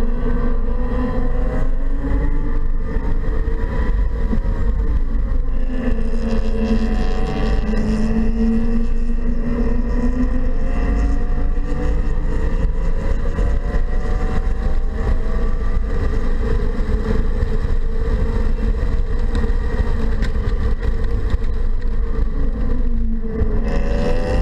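Inside the cabin of a 2015 BMW 228i at track pace: its 2.0-litre turbocharged four-cylinder engine rising and falling in pitch through acceleration, braking and gear changes, over heavy road and wind rumble. Near the end the engine note drops sharply, then climbs again.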